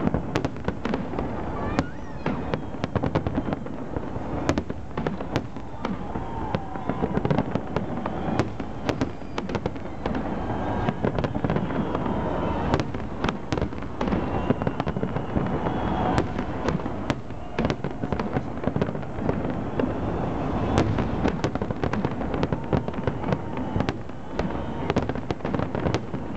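Aerial fireworks shells bursting in a dense barrage of sharp bangs and crackles, many to the second.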